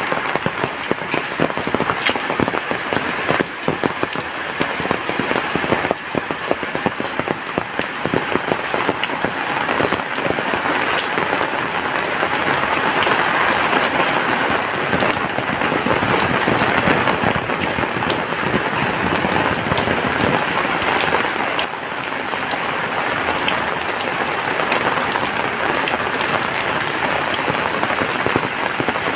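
Heavy rain falling steadily, a dense hiss of drops striking surfaces with many small patters mixed in, swelling a little midway.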